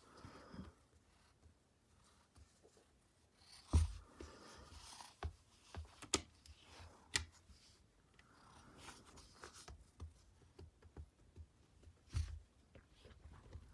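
Soft scratching and rustling with scattered light clicks, and two dull thumps, one about four seconds in and one near the end.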